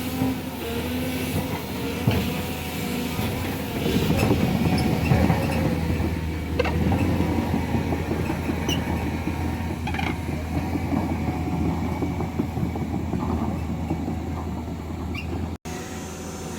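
Heavy diesel earthmoving machine running steadily, with scattered metallic clanks and squeals over the low engine hum.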